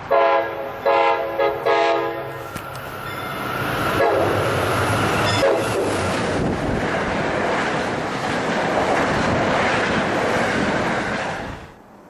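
Train horn sounding three short blasts, then the train passing through at speed with a loud rush of wheel and rail noise that stops abruptly near the end.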